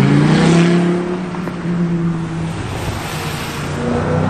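A car engine accelerating as it pulls away: its note rises quickly, then holds steady for a couple of seconds before fading. Near the end a second car's engine starts rising in pitch.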